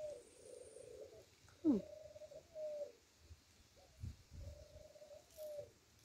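Soft, drawn-out bird calls, three of them, each about a second long on a steady low pitch. About two seconds in comes one short, sharp squeak that slides quickly downward, the loudest sound here.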